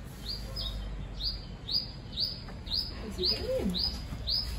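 A small bird calling one short, high chirp over and over, about two a second, each note sweeping up and then holding.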